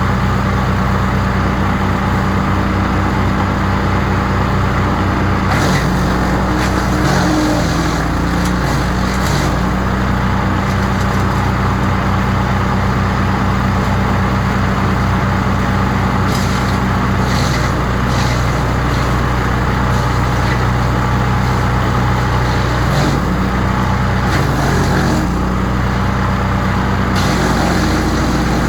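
Crytec 15 hp wood chipper's engine running steadily. A few times, about six seconds in, in the middle and near the end, rougher noise comes in and the engine note wavers as it takes load.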